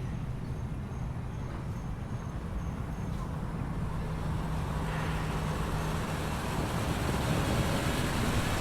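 Ducati Multistrada V4S's V4 engine running under way, mixed with wind and road noise, growing louder about halfway through.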